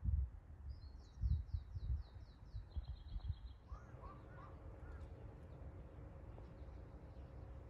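A songbird sings a quick run of about eight falling notes, then a short trill, over low rumbling bursts of wind on the microphone. About four seconds in, a steady low hum sets in, with a few short chirps over it.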